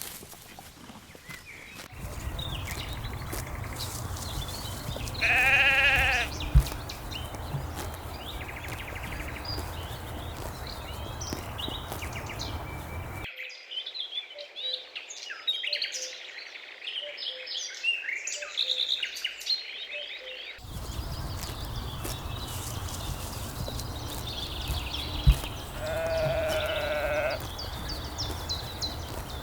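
Lambs bleating: one wavering bleat about five seconds in and another near the end, over a steady low rumble. In the middle comes a stretch of many short high chirps.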